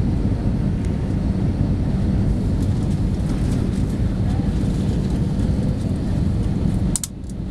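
Steady roar of jet engines and airflow heard inside the cabin of an Airbus A318 airliner on approach, with a low steady hum under it. Near the end the sound drops suddenly for a moment, with a few clicks.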